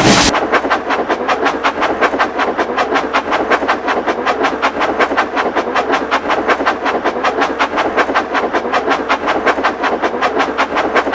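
Steam locomotive exhaust chuffing at a steady, fast beat of about five chuffs a second, cutting in abruptly just after the start.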